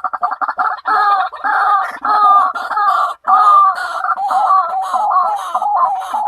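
White-breasted waterhen calling. It opens with a fast run of short clipped notes, then goes into an unbroken string of repeated wavering notes at about three a second.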